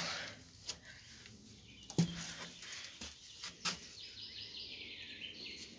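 A few sharp knocks and thumps, and a small bird singing a quick run of high notes about four seconds in.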